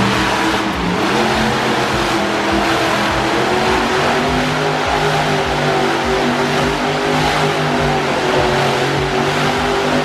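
Monster truck engine running loud in an arena, its pitch slowly rising and falling as it revs.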